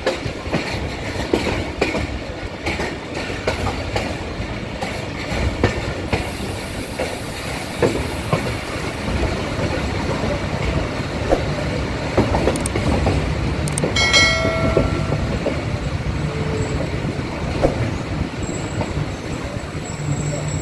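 Passenger train coach running at speed, its wheels rumbling and clattering over rail joints and points. About two-thirds of the way through, a short horn blast sounds from the locomotive. Near the end a thin high squeal sets in.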